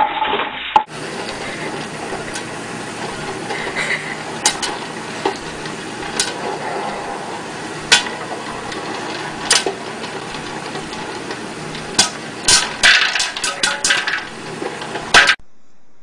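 Popcorn popping in an electric popcorn popper under a clear dome, with a steady sizzle of hot oil. A few single pops come a second or two apart at first, then the pops come thick and fast over the last few seconds.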